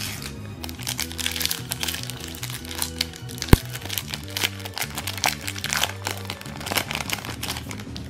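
Foil wrapper of a Yu-Gi-Oh! booster pack being crinkled and torn open, a dense run of sharp crackles with one loud snap about three and a half seconds in. Background music plays underneath.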